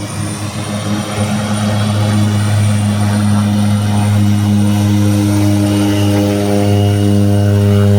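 Cessna Grand Caravan 208's single turboprop engine and propeller droning steadily after touchdown, growing louder over the first few seconds and then holding at a steady pitch.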